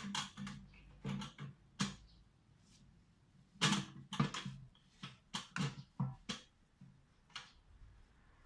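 Irregular sharp clicks and knocks, some with a short low ring, from hands and tools working on a small water-pump engine.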